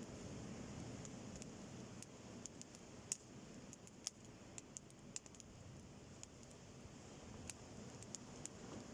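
Driftwood campfire crackling, with scattered sharp pops a few times a second over a low, steady wash of sea surf.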